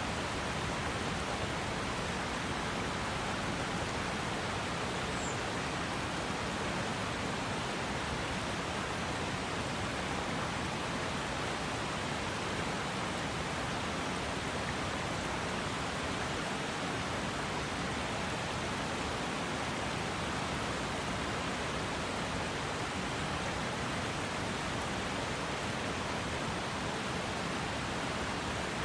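River water flowing and rushing over rocks, a steady, even rush that does not change.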